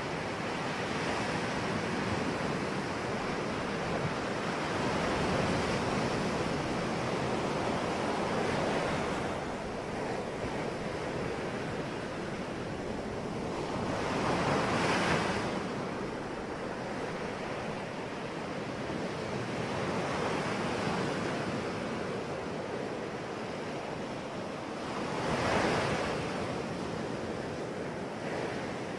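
Ocean waves breaking on a shore, a steady wash of surf that swells as larger waves break, loudest about halfway through and again near the end.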